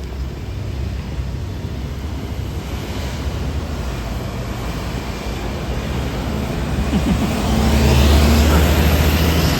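A heavy road vehicle's engine running with a deep rumble and road noise, growing louder as it approaches and loudest near the end as it passes close by.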